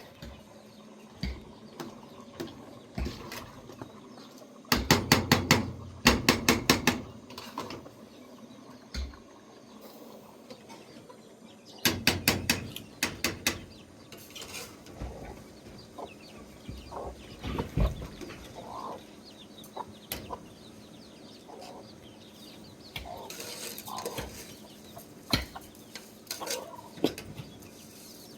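Chickens clucking, with two loud spells of rapid clicking or rattling about five and twelve seconds in.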